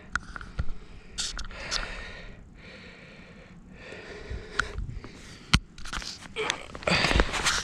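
Handling noise: irregular rustling and scattered clicks and knocks, with one sharp click about five and a half seconds in and a louder stretch of rustling near the end.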